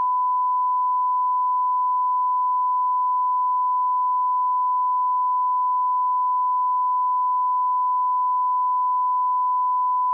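Audio line-up test tone at −18 dB: one pure, unbroken pitch held at a constant level.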